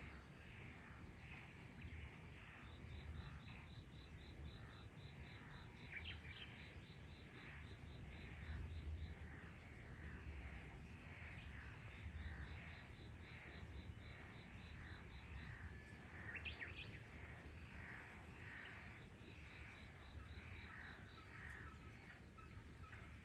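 Frog chorus: many frogs calling at once in overlapping, quickly repeated croaks, with a fast, even trill running through much of it. A couple of brief higher chirps cut in about a quarter and two thirds of the way through.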